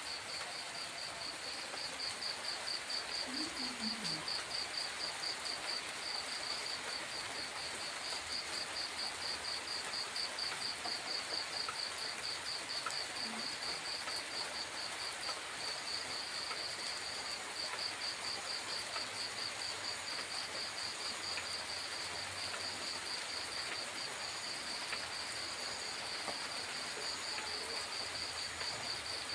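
Steady hiss of light rain at night, with an insect chirping over it in a high, even pulse a few times a second.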